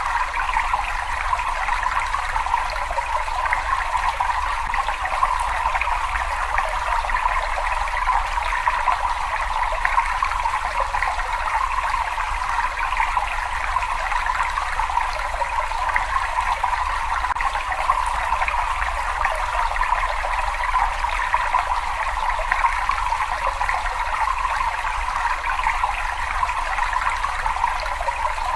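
Steady trickling and running water, an even splashing hiss that does not change or break.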